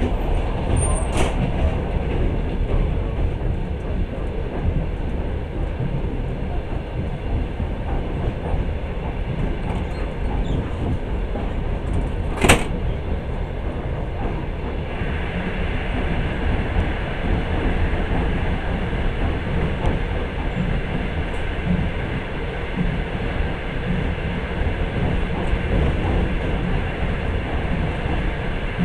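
Long-distance passenger train running at speed, heard from aboard: a steady rumble of wheels on the rails. A single sharp click stands out about halfway through.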